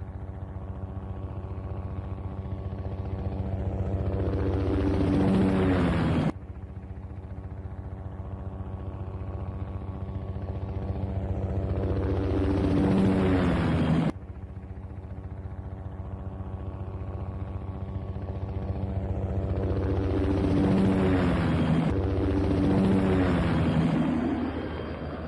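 Helicopter sound effect: rotor chop and engine hum growing louder as it passes. The sound cuts off suddenly and starts over quiet twice, about 6 and 14 seconds in, as the recording loops, then swells once more and fades near the end.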